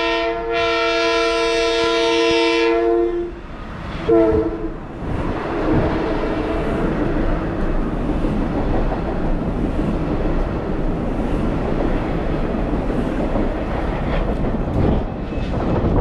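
Long Island Rail Road Kawasaki M9 train sounding its multi-note horn as it approaches. A blast ends half a second in, a long blast follows to about three seconds, and a short blast comes a second later. The train then rolls past close by with a steady rumble of wheels on rail and light clicking.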